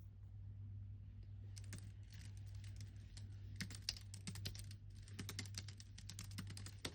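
Typing on a computer keyboard: quick runs of key clicks starting about a second and a half in, broken by short pauses, over a steady low hum.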